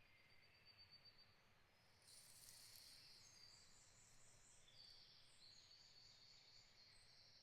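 Faint birdsong: high, thin notes in quick runs at shifting pitches, growing stronger about two seconds in, over a low background hush.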